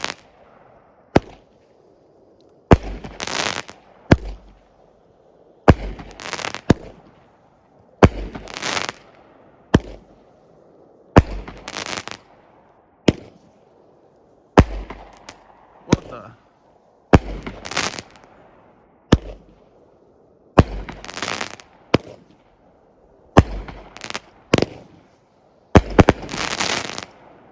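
Top Gun Fantastic Thunder 200-gram consumer firework cake firing shot after shot, one every couple of seconds. Each shot is a sharp launch thump followed by a longer bang as the shell breaks overhead. It closes with a triple-shot finale, a longer, louder burst near the end.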